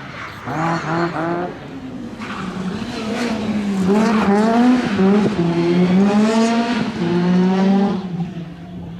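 Rally car engine revving: a few short blips about half a second in, then held high from about three and a half seconds, its pitch rising and falling repeatedly before dropping away near the end.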